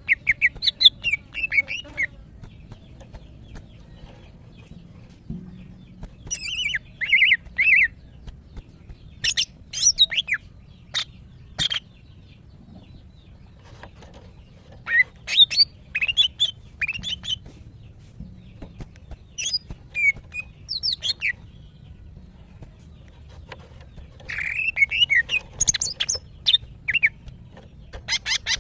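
Female green leafbird (cucak ijo) calling in breeding condition, the call used to draw males: bursts of quick, high chirps and sharp notes in phrases of one to a few seconds, with short pauses between them.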